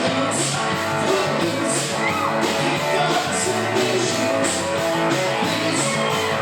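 A yacht rock band playing, with guitar over a steady bass line and drums, and a cymbal accent about every second or so.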